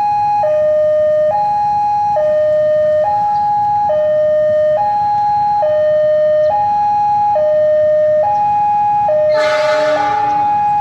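Railway level-crossing warning alarm sounding a steady two-tone signal, alternating between a higher and a lower tone about every second while the crossing is closed for an approaching train. A short horn blast sounds near the end.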